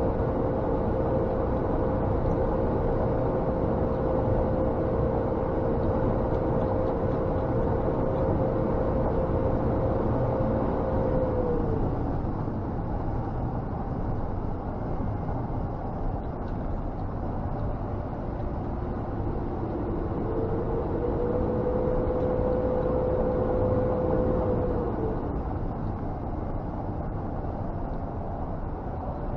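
Scania G460 truck heard from inside the cab on the move: steady engine and road rumble with a pitched drone that drops away about twelve seconds in and comes back for a few seconds near the middle of the second half.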